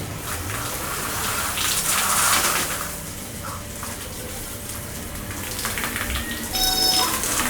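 Water gushing and splashing onto a motorcycle as it is washed down, swelling louder about two seconds in. Music comes in near the end.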